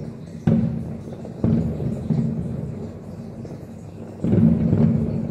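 Distant aerial fireworks shells bursting: three heavy booms, about half a second, a second and a half and four seconds in, each followed by a low rolling rumble that dies away.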